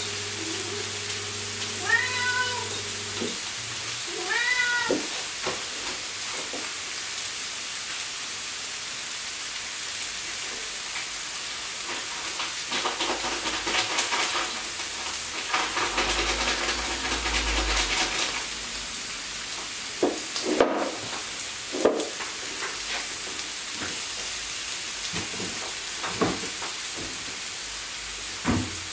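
Hamburger patties sizzling steadily on a ridged grill pan over a gas flame. A cat meows twice in the first few seconds, and a few sharp knocks come about two-thirds of the way through.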